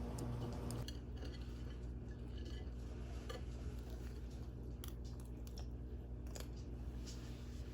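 Faint scattered clicks and light clinks over a steady low hum.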